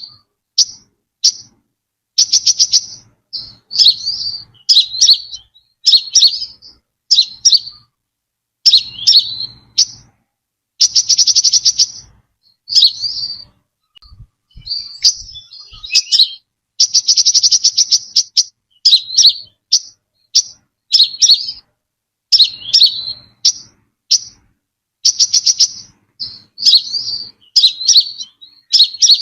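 Brown-throated sunbird singing: short, high chirping phrases repeated with brief gaps, and twice a rapid trill lasting about a second.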